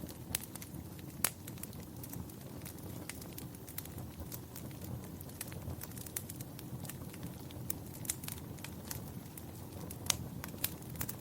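Fireplace fire crackling: a steady low rush of flames with scattered sharp pops, a loud one about a second in and several close together near the end.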